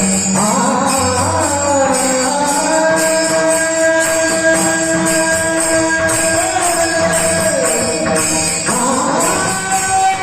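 Marathi Warkari devotional singing: a male voice holds a long note and slides between pitches over a steady beat of small metal hand cymbals.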